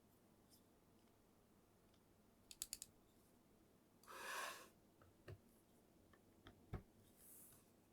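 Faint handling sounds of a plastic figure: a quick run of four small clicks, a short soft rustle, then a few single clicks.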